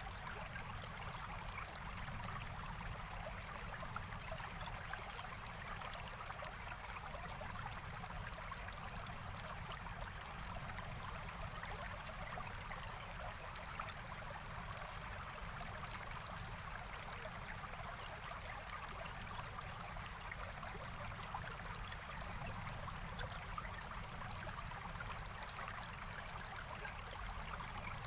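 A forest stream flowing steadily, with a continuous rush of water that neither rises nor falls.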